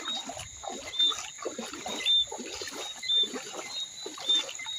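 Night-time animal chorus: a steady high drone with a short high chirp repeating about once a second.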